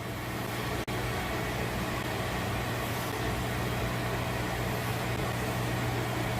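Steady low electrical hum over an even fan-like hiss, broken by a brief dropout about a second in.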